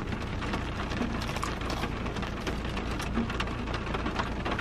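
Heavy rain falling steadily, with many separate drops ticking on a nearby surface.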